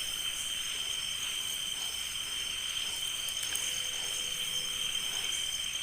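Steady chorus of crickets: continuous high-pitched trilling that does not let up.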